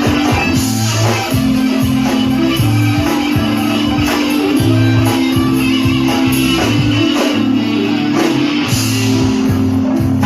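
A live band playing, with guitar and a bass line of held notes that change every half second or so.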